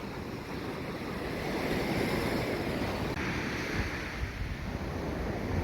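Surf washing onto a sandy beach, a steady wash that swells about two seconds in, with wind buffeting the microphone in low rumbles.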